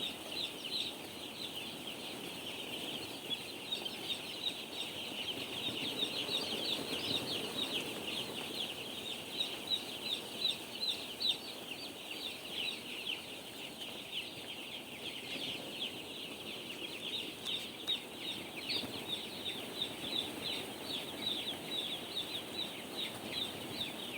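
Dense, unbroken peeping of thousands of two-day-old chicks, many short high calls overlapping, over a low steady background noise.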